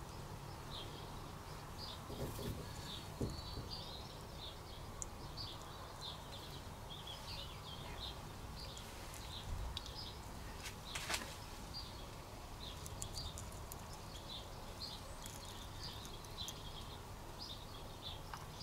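Small birds chirping over and over in short, irregular notes, over a steady low background rumble. There is one sharp click about eleven seconds in.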